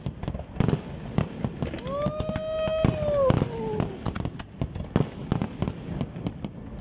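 Aerial fireworks display: a rapid, irregular string of shell bursts and crackling. About two seconds in, a long high-pitched tone is held for about a second and a half, rising at its start and falling away at its end.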